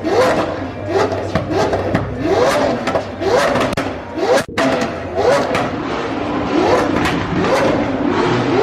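Car engine revved over and over in quick throttle blips, each rev rising and falling in pitch, over the noise of a car-meet crowd. The sound cuts out for a moment about halfway through.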